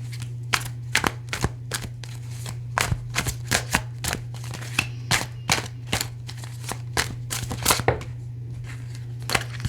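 Tarot cards being shuffled by hand: a run of sharp, irregular clicks as the cards slap together, over a steady low hum.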